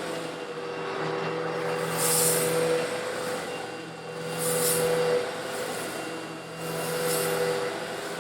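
Eureka vacuum cleaner running steadily as it sucks up coarse stone granules, its motor hum under a constant hiss of air and grit. Three times the hiss swells louder and sharper.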